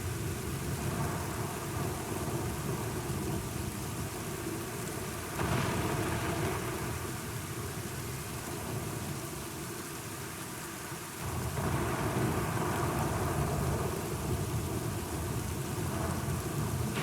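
Steady rain with deep rolling thunder. The rumble swells up suddenly about five seconds in and again about eleven seconds in.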